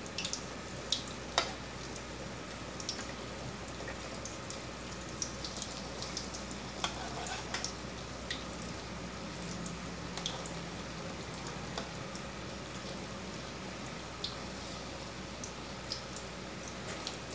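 Rice-batter-coated stuffed bitter gourds shallow-frying in oil in a metal wok on a low flame: a steady gentle sizzle with scattered small pops, and a few clicks of the spatula as the pieces are turned over.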